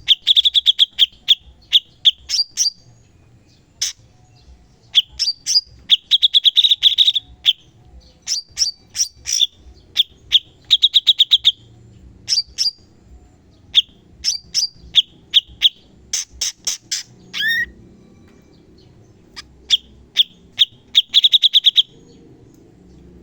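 Cucak cungkok singing in bursts of sharp, rapid-fire notes and fast high trills, each burst a second or two long with short pauses between, the 'shots' used in a bird-training recording.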